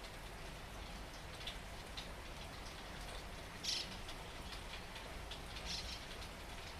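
Steady rain falling, with scattered individual drops ticking and splatting on a surface; one louder splat about halfway through.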